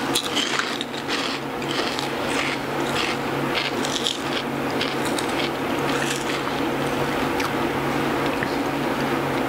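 Pork rinds crunching as they are chewed close to a microphone, a string of short crackling crunches that thins out after about six seconds. A steady low hum runs underneath.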